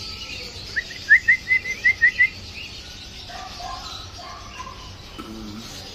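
A small caged bird chirping: a quick run of about eight short rising chirps about a second in, then fainter, lower calls.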